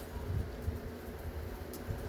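Faint handling noise: a few light clicks and knocks over a low rumble as small parts are worked off a scrap circuit board.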